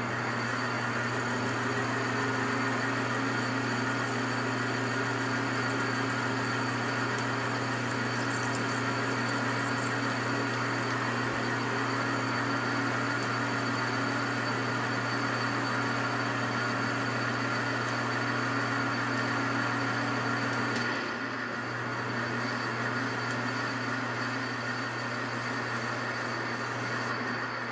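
Metal lathe running and taking a 40-thousandths turning pass on an aluminium workpiece: a steady motor hum under the hiss of the cut. About twenty-one seconds in the sound drops and goes on more quietly until it fades near the end.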